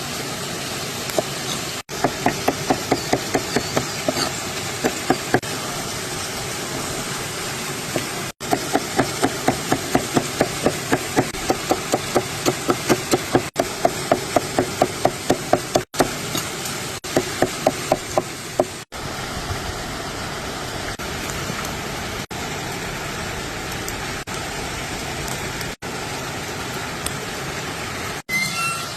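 Runs of quick, even knocks, about three a second, over a steady rushing noise. The runs stop and start again several times.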